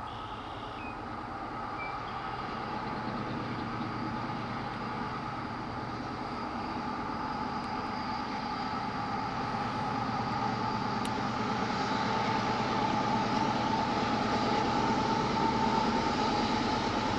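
Approaching diesel freight train, a loaded grain train led by two locomotives, a steady rumble with a held hum that grows gradually louder as it nears.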